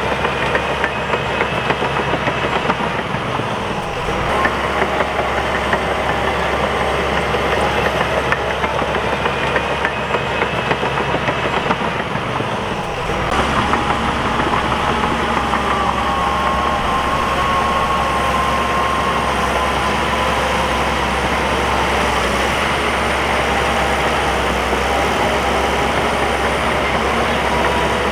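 Crawler bulldozer's diesel engine running steadily, with a wavering whine above it. The sound shifts abruptly twice, about four and thirteen seconds in.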